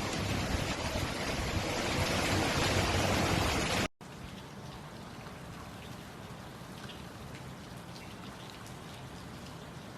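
Rain falling: a loud, dense hiss of rain that cuts out abruptly about four seconds in, then softer, lighter rain with individual drops ticking.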